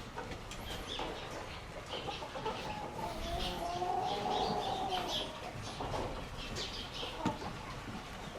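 Poultry calling and clucking, with one longer drawn-out call from about three to five seconds in, over many short high chirps.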